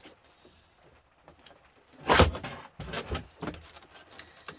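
Metal clattering and knocking from a copper-aluminium radiator coil being worked apart by hand: one loud clank about two seconds in, then a run of shorter, sharper clicks and taps.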